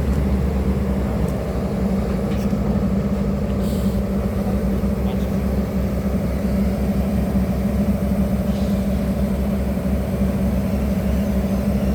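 Hydraulic excavator's diesel engine running steadily with an even low hum.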